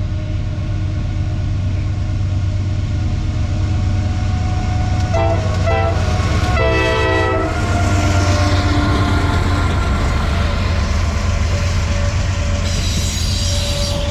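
Freight train's diesel locomotive rumbling steadily as the train passes. Its horn sounds twice, several tones together: a short blast about five seconds in and a longer one a second later. A thin high squeal comes near the end.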